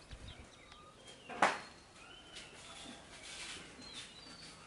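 Birds chirping in short calls, with one sharp, loud sound about a second and a half in.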